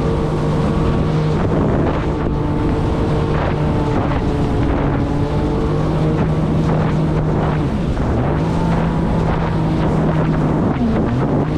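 Jet ski engine running at a steady speed, heard from the rider's seat, with wind buffeting the microphone. The engine pitch drops briefly and climbs back twice in the second half.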